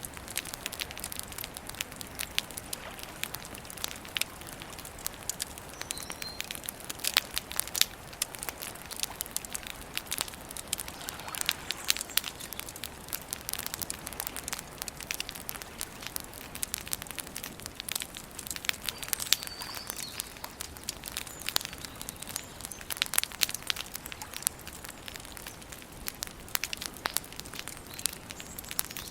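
Wood campfire crackling, with a steady hiss under frequent irregular sharp pops and snaps.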